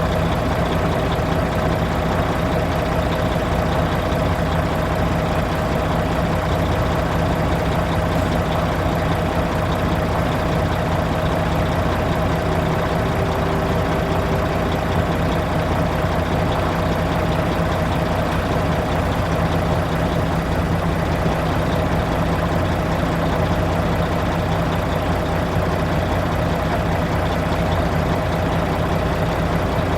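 Volvo truck diesel engine idling steadily.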